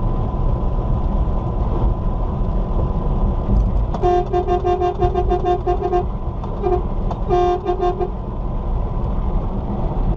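Vehicle horn honked in rapid short toots, about five a second, in two bursts about midway, over a steady low rumble of road and engine noise.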